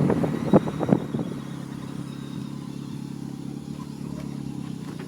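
Vehicle engine running steadily at low revs, with a few sharp knocks or clatters in the first second or so.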